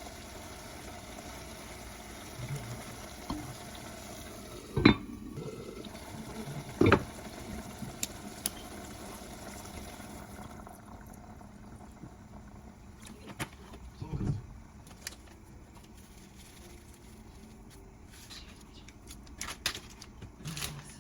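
Kitchen sounds: a steady low hiss with a few sharp knocks and clinks of dishes or utensils, two loud ones about five and seven seconds in.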